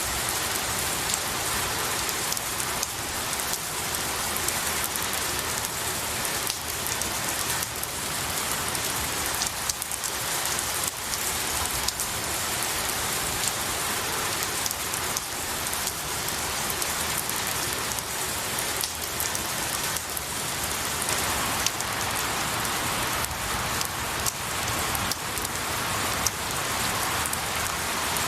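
Steady rain falling on pine needles and a tree, a constant hiss of spray with many small drop impacts ticking through it.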